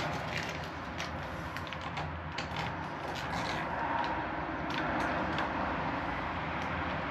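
Scattered light clicks and handling noises of small lock hardware being worked, over a steady low background rumble.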